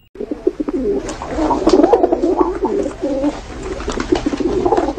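Birds calling: a dense run of low, warbling calls overlapping one another, which starts and stops abruptly.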